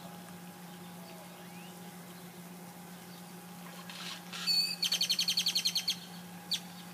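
A songbird gives a high wavering call past the middle, then a fast trill of about ten notes a second lasting just over a second, and one short note near the end. A steady low hum runs underneath.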